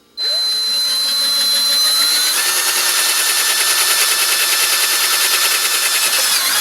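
Electric drill boring into a plastic electronics case to find a suspected hidden screw. The motor winds up in pitch over the first second, then runs steadily and stops right at the end.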